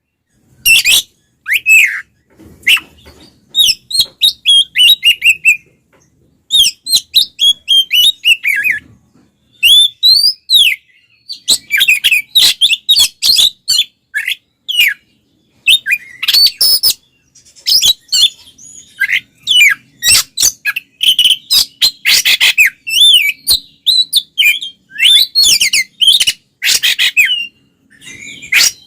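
Oriental magpie-robin (kacer) singing loudly in its agitated fighting mode: rapid, varied runs of whistles and sharp chirps with quick up-and-down sweeps, delivered in bursts with short pauses between them.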